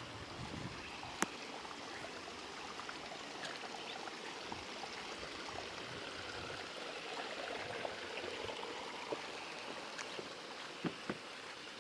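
Heavy rain falling steadily, an even hiss of water with a few sharp drop hits, one about a second in and a few near the end.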